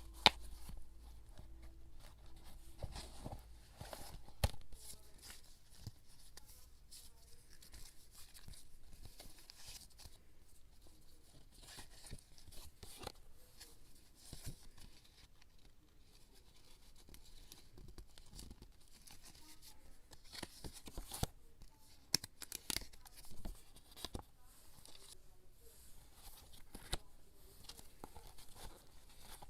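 Paper and craft materials being handled for scrapbooking: tearing and rustling, broken by scattered sharp clicks and taps, the loudest just after the start.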